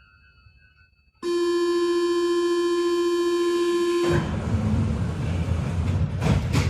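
Paris Métro line 1 train's door-closing warning buzzer sounding steadily for about three seconds, then a loud rushing noise with a couple of knocks near the end.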